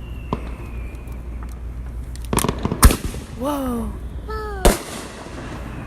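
Consumer fireworks going off: a small crack, then a quick run of crackles about two seconds in, a loud sharp bang just after it, and a second sharp bang a couple of seconds later.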